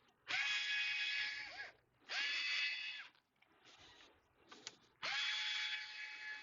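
Small electric screwdriver motor run three times in short bursts, each a steady whine that spins up and winds down, the third the longest. The screws are being driven out while the mini PC's internal assembly is taken apart.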